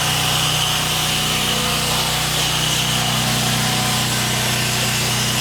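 Pressure washer engine running steadily, with a constant hiss of water spraying from the wand as soap is laid on.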